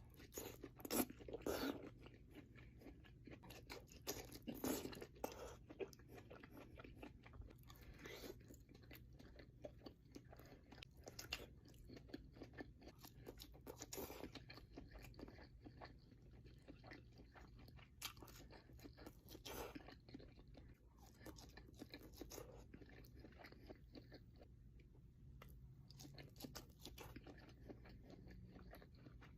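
A person chewing and biting food, with a run of soft, irregular crunches and smacks and a few louder bites in the first five seconds. The food is imitation crab from a crab boil.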